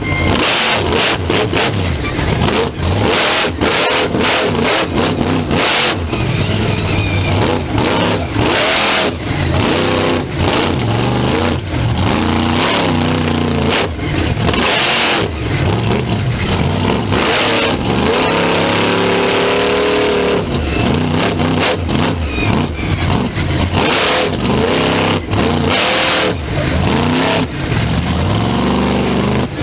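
Monster truck engine revving hard again and again, its pitch climbing and dropping, with sharp cracks and pops throughout.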